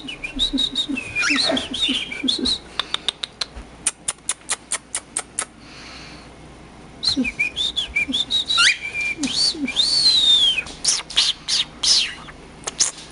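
Cockatiels calling: a rapid run of short, sharp chirps for the first five seconds or so, a brief pause, then more chirps mixed with whistled rising and falling notes, with one long falling whistle about ten seconds in.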